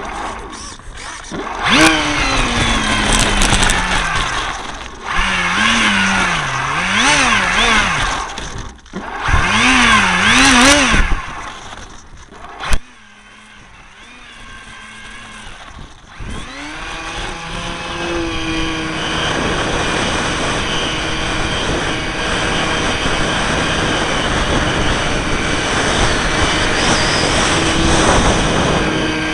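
A model aircraft's motor, heard close up through an onboard camera, revved up and down in several short bursts. After a sharp click and a quieter gap, it spins up again and holds a steady high pitch.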